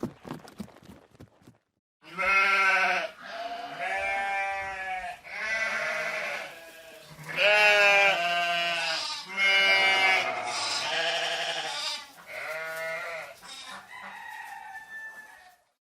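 A run of hooves clip-clopping fades out, then a goat bleats over and over, a dozen or so separate wavering calls, each about a second long.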